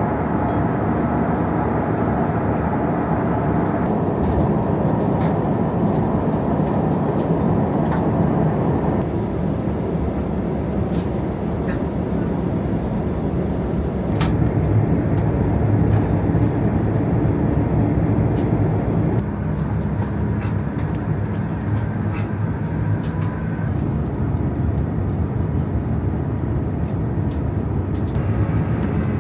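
Steady rumble of airflow and engine noise inside the cabin of an Airbus A350-900 in cruise, with a few faint clicks. The tone of the rumble shifts slightly a couple of times.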